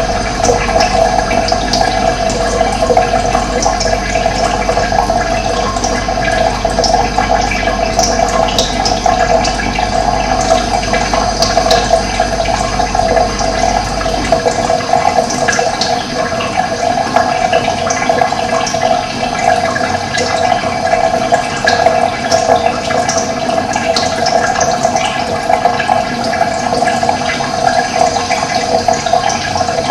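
Water running steadily, as in a stream, with short high bird chirps scattered through it. A faint low hum underneath stops about halfway through.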